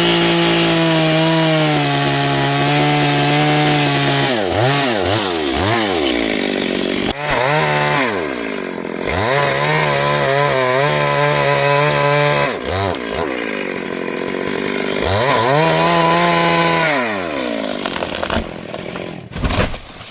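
Chainsaw cutting into wood at high revs, the engine note sagging and picking back up several times as the cut goes on, then dropping away near the end.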